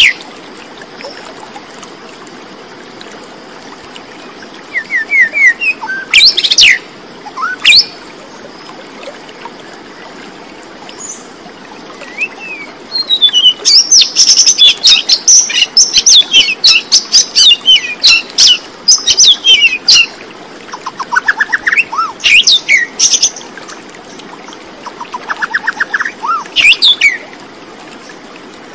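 Birds chirping and calling in bursts, with a busy run of quick chirps in the middle and fast rattling trills a few seconds later, over a steady background hiss.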